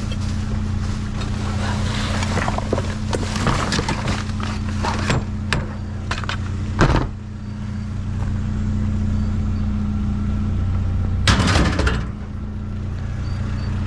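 A vehicle engine running with a steady low hum. It is overlaid by a few short knocks and clatter, the loudest about halfway through and again about two thirds of the way in.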